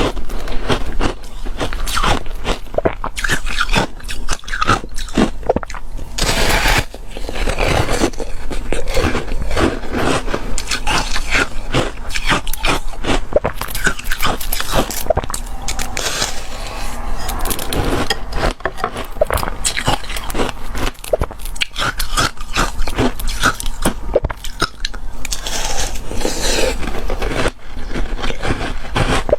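Close-miked biting and chewing of crunchy foam ice dipped in passionfruit: a dense, continuous run of loud crackling crunches.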